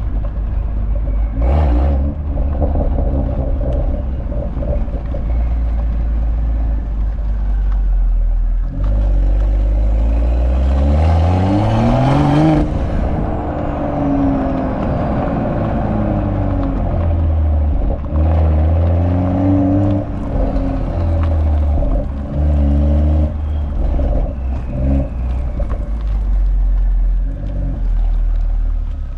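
BMW M340i's B58 turbocharged inline-six exhaust rumbling steadily at low revs. About nine seconds in, it pulls hard, the revs climbing for about three seconds before cutting off sharply, followed by several shorter surges of throttle.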